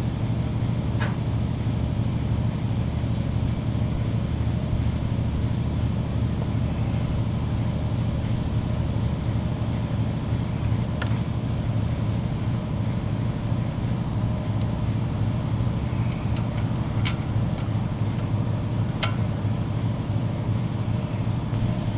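Steady low mechanical hum throughout, with a few faint, short clicks of small parts or tools about one second in, near the middle and toward the end.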